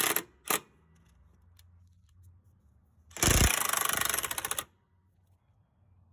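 Impact wrench hammering on a truck shock absorber's mounting bolt: two quick blips near the start, then a burst of about a second and a half in the middle.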